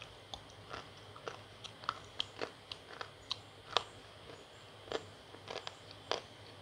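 Close-up biting and chewing of a slate pencil: an irregular run of sharp, dry crunches and crackles as the stick is bitten and ground between the teeth, the loudest crunch a little before the middle.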